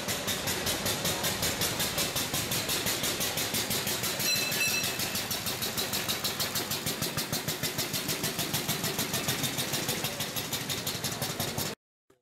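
Single-cylinder 954 cc engine of a replica 1886 Benz Patent Motorwagen running as the car drives along, a steady rapid chuffing beat of about six pulses a second. It cuts off suddenly near the end.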